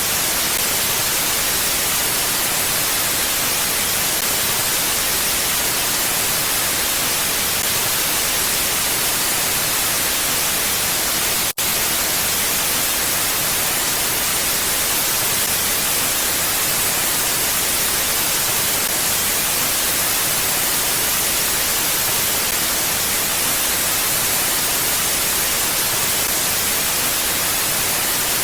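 Steady, even hiss like white noise, with no gusts and brightest in the treble. It cuts out for a split second about eleven and a half seconds in.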